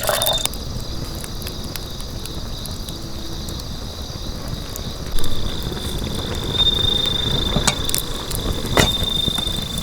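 Campfire crackling with a few sharp pops, under the steady high trill of an autumn insect.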